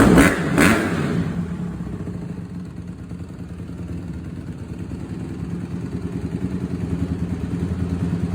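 Honda CRF150R dirt bike's four-stroke single-cylinder engine running. It is blipped sharply twice in the first second, then settles to a steadier run that fades, then grows louder again towards the end.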